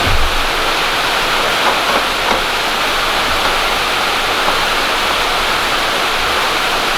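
Steady, heavy rain hiss, with a few faint light clicks.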